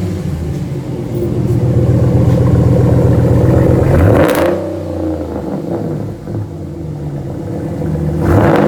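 A 2019 Dodge Ram's 5.7-litre Hemi V8 idling loudly through a muffler-deleted exhaust, resonators kept, with a mandrel-bent Y-pipe, just after start-up. It is revved briefly about four seconds in and again near the end, settling to a lower idle in between.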